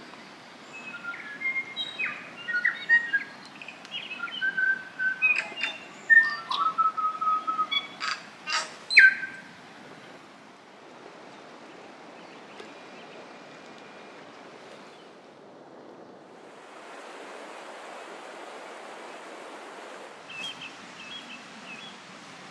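Bush birdsong: a bird singing a quick, varied run of chirps, whistles and sharp clicks for the first ten seconds or so, then a soft, steady rushing background with a few brief chirps near the end.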